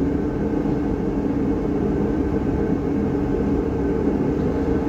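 Steady low drone of background noise with a few faint steady tones in it, unchanging, with no distinct knocks or clicks.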